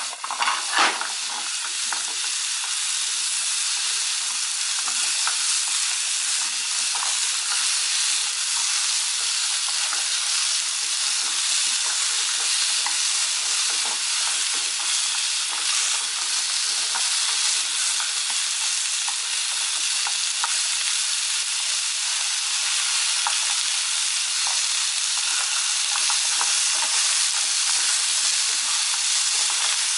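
Diced zucchini sizzling in a frying pan as it is stir-fried with chopsticks: a steady hiss, with a few sharp clicks in the first second or so.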